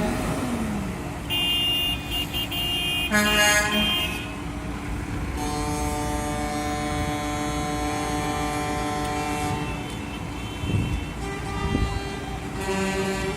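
Truck air horns blowing several held blasts over the running of the trucks' engines: one for a few seconds near the start with a sharp loud chord near its end, a long steady blast of about four seconds in the middle, and another starting near the end.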